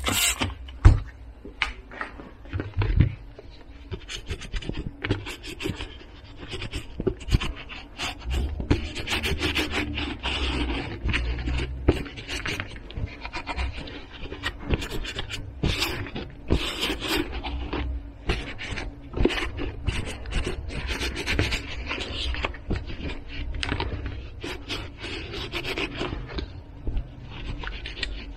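Handling noise: rubbing and scraping with many small clicks and knocks, with a louder knock about a second in and another about three seconds in.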